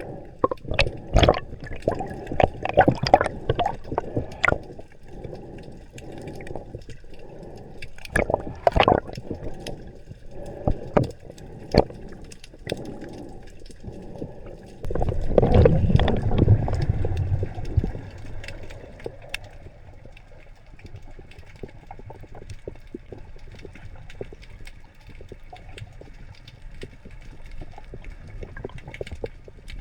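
Water bubbling and gurgling with irregular crackles, and a louder, low rush of bubbles from about fifteen seconds in that lasts a few seconds before settling to a quieter wash.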